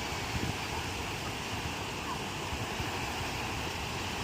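Ocean surf: waves breaking and washing on the shore in a steady roar of noise, with wind buffeting the microphone.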